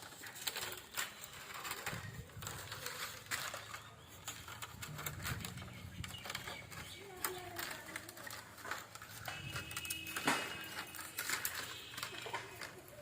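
Irregular light clicks and taps of hand work on bamboo, with faint voices in the background.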